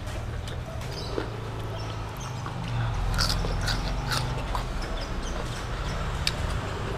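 Close-miked chewing and wet mouth clicks and smacks of someone eating soft, saucy boneless chicken feet by hand, with the clicks thickest about three to four seconds in. A low steady hum runs underneath.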